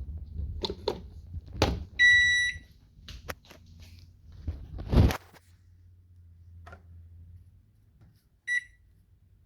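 Two electronic beeps, one lasting about half a second about two seconds in and a short one near the end, among several sharp knocks and clatter, the loudest about five seconds in, followed by a low hum for a couple of seconds.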